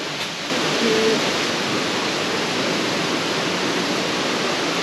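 Waterfall rushing: a steady, dense roar of falling water that steps up in loudness about half a second in, then holds.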